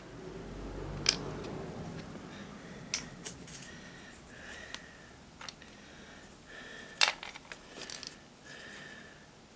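Small electric motor on an RC model truck whining in short spells, with sharp plastic clicks and clacks, the loudest about a second in and again about seven seconds in.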